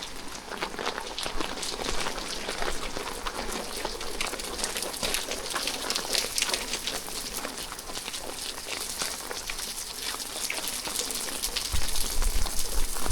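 Rain falling steadily, a dense patter of many small drop taps. Near the end a low rumble comes in and the whole sound gets louder.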